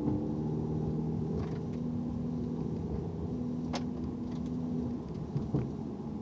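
Mercedes-AMG C43 sedan's twin-turbo V6 running at light throttle at about 50 km/h, heard from inside the cabin as a steady low drone over road noise. One sharp click a little under four seconds in, and a couple of soft knocks near the end.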